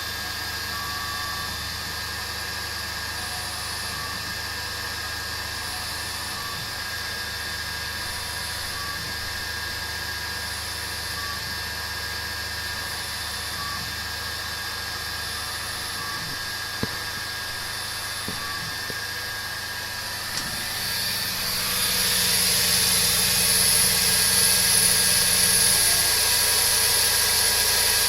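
Emco CNC milling machine, run as a lathe, running with a steady whine and a faint short tone that repeats about every two and a half seconds. About three quarters of the way in it grows louder and hissier.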